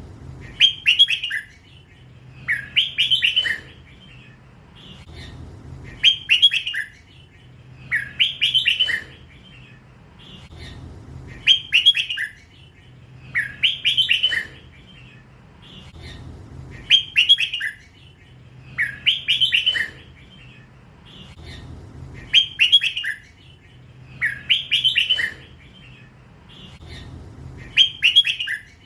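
Young hybrid red-whiskered bulbul singing the repeated song phrase Thai bird keepers call 'lak wai'. Each phrase is a quick run of bright notes, repeated every two to three seconds, about eleven times.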